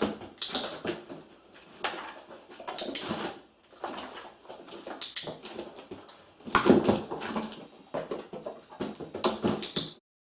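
A dog moving about a cardboard box, its paws scuffing and knocking on the cardboard, with a few short, sharp, high clicks from a training clicker marking her as she gets in. The sound cuts off just before the end.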